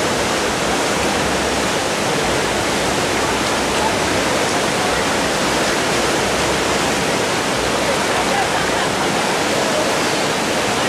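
River whitewater rapids rushing: a loud, steady roar of moving water.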